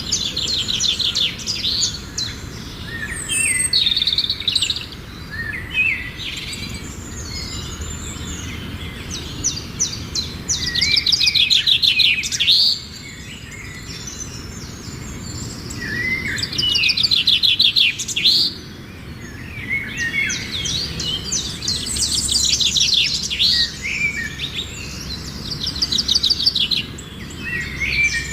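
Several birds singing and calling over one another, with loud, fast trilled phrases that come back every few seconds among other chirps, over a steady low background noise.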